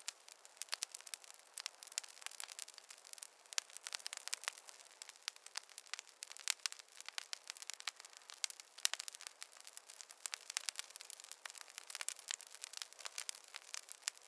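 Wood fire crackling: a dense run of irregular sharp snaps and pops over a faint hiss.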